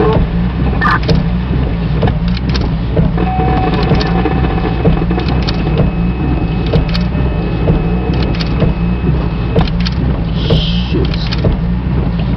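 Steady low rumble of a motor vehicle on the move, with faint scattered ticks and rattles.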